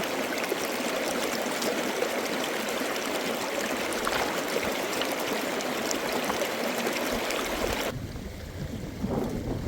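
Running water of a stream, a steady rushing flow. About eight seconds in it cuts off suddenly, giving way to a low wind rumble on the microphone.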